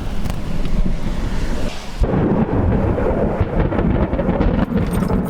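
Thunder from a supercell thunderstorm rumbling continuously and loudly, with an abrupt shift in the sound about two seconds in.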